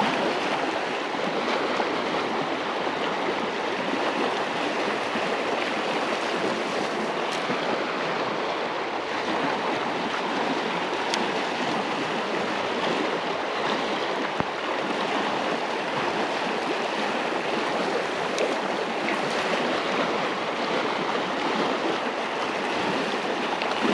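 Truckee River's current rushing steadily around a wading angler, an even, unbroken hiss of moving water.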